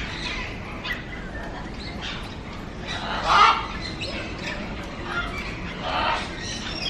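Parrot squawking a few times. The loudest call comes about halfway through, with another near the end.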